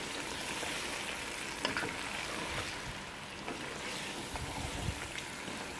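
Chicken and chopped tomatoes sizzling steadily in a pan as they are stirred with a wooden spoon, with a couple of faint spoon scrapes in the sizzle.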